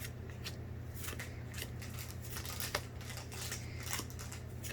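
A Pokémon TCG foil booster pack being opened and its cards handled: a run of irregular crisp crinkles, snips and card clicks.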